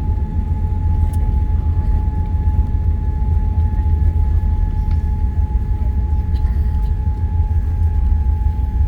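Cabin noise inside a Boeing 787 Dreamliner on the ground after landing: a steady low rumble of the airliner rolling along, with a thin steady whine above it.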